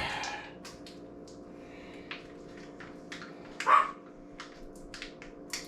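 A dog barks once, loud and short, a little past halfway, with a smaller yelp at the start, over a steady hum and scattered light clicks.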